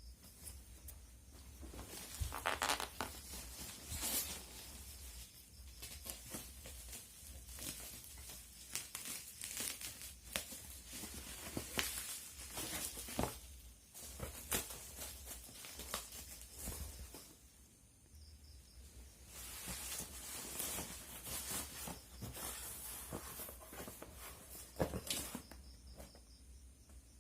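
Packaging being torn open and handled: tearing and crinkling with irregular knocks and rustles, in uneven bursts with a short lull in the middle.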